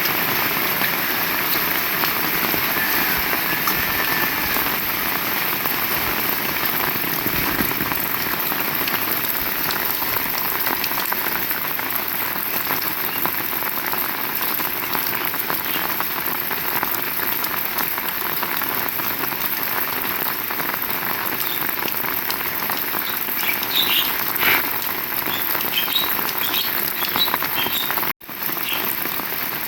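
Heavy rain falling steadily, an even hiss of rain on surfaces. A few short high chirps come through the rain near the end, and the sound cuts out for an instant just before it ends.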